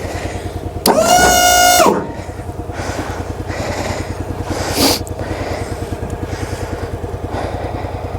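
Log splitter's small gasoline engine idling with a steady pulsing beat, warming up after a cold start in 10-degree cold with stiff oil. About a second in, a loud high squeak lasts about a second, and there is a brief scraping noise near five seconds.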